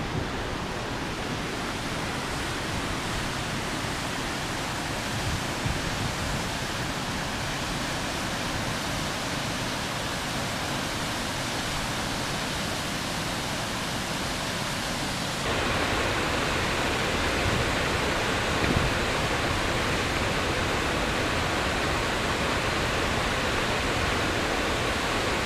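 Waterfall: a steady rush of falling water, which gets louder about fifteen seconds in.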